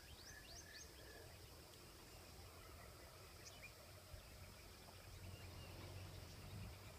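Near silence: faint outdoor background with a few short, high bird chirps, three in quick succession at the start and one more about halfway through.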